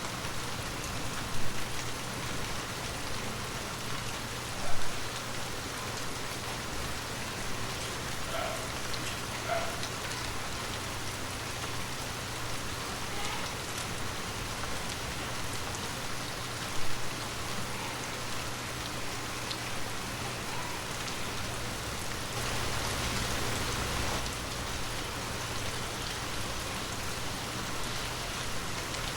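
Heavy rain falling steadily in an even hiss, with three sharp, louder single hits near the start and about halfway through, and a brief swell in the downpour near the end.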